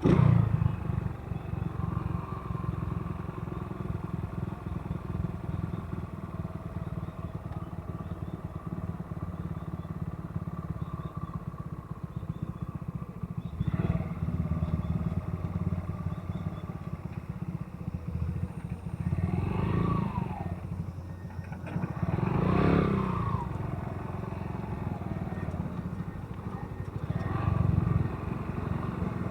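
Motorcycle riding noise: engine and road rumble with wind buffeting on the microphone. A few louder rising-and-falling swells come about two-thirds of the way through and again near the end.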